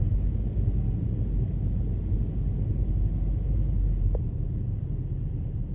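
Low rumble of strong wind buffeting the microphone, with one faint tick about four seconds in.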